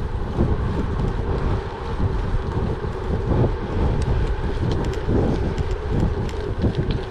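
Wind buffeting the microphone over the steady rolling noise of a gravel bike's tyres on a gravel track, with scattered light ticks and rattles from about halfway through.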